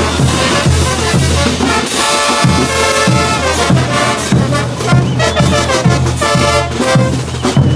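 Bolivian brass band playing a morenada: trumpets and trombones in full chorus over a steady bass-drum beat.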